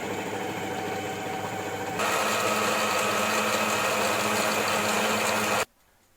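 Electric mixer running steadily while beating egg yolks with sweetened condensed milk and lemon juice until the mixture doubles in volume. It steps up to a louder, higher speed about two seconds in, then switches off suddenly near the end.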